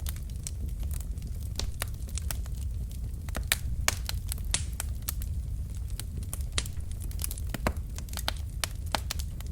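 Wood fire burning in a fireplace: logs crackling and popping, irregular sharp snaps over a steady low rumble of the flames.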